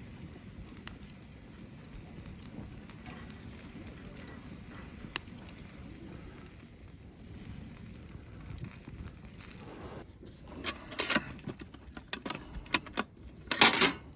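Campfire crackling with scattered small pops. About ten seconds in, a run of louder sharp clicks and knocks starts, the loudest near the end.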